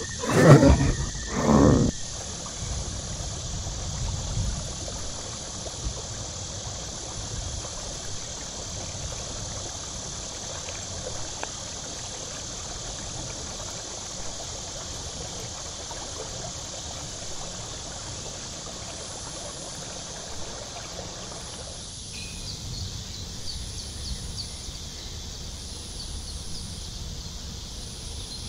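Tropical forest ambience: a steady high drone of insects, with faint repeated chirps joining after about twenty-two seconds. The first two seconds hold two loud, low sounds.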